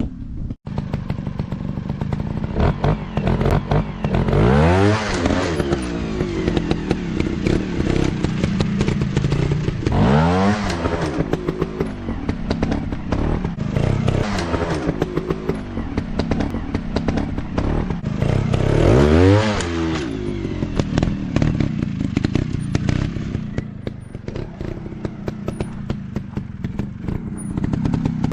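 Dirt bike engines running off-road, revved hard three times, each rev sweeping up and falling back in pitch, with clattering knocks throughout.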